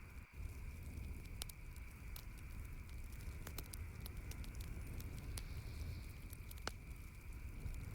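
Campfire crackling, with irregular sharp pops and snaps, a few louder than the rest, over a steady low rumble of the burning fire.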